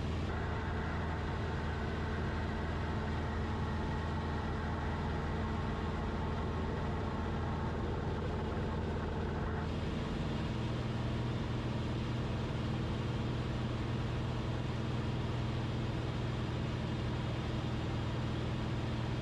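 Cessna 172RG's four-cylinder Lycoming engine and propeller droning steadily in flight. A higher steady tone sits over the drone for about the first ten seconds, then cuts off, and the engine's low note shifts slightly soon after.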